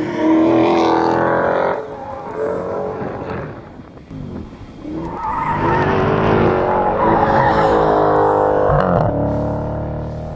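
Dodge Challenger V8 revving hard on a track, its engine note climbing and dropping with the throttle. It is loud for the first couple of seconds, fades, then comes back strongly about five seconds in as the car runs past again.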